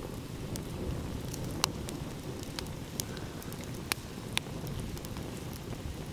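Wood fire crackling with scattered sharp pops, a few of them louder, over a steady low rush of ocean waves.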